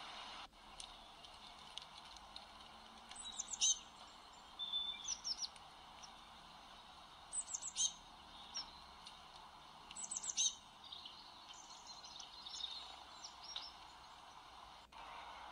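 Birds singing: short bursts of quick, high, falling chirps every two to three seconds, with a few softer chirps between them, over a steady background hiss.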